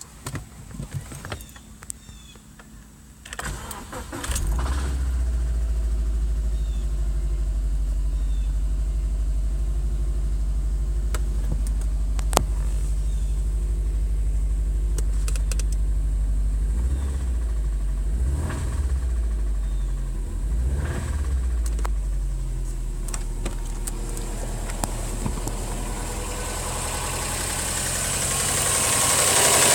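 2008 Subaru Legacy GT's turbocharged 2.5-litre flat-four engine cranked and starting about four seconds in, then idling steadily with a couple of brief revs in the middle, and a rising hiss near the end. The engine has a knocking noise that the owner suspects, without being sure, is rod knock.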